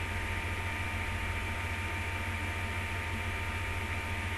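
Steady electrical hum with a constant hiss underneath, unchanging throughout: the background noise of the recording.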